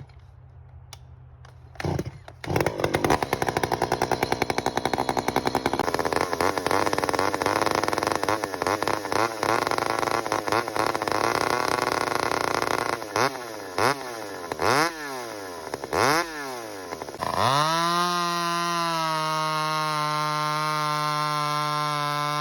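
Stihl MS170 two-stroke chainsaw with a custom 'pretzel' exhaust pipe, cold-started. It gets loud about two and a half seconds in and runs unevenly, is revved up and down three times, then is held at a steady high rev near the end.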